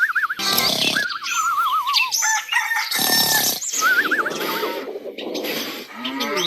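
Animal calls like chickens: warbling, wavering cries repeated several times, mixed with short noisy bursts.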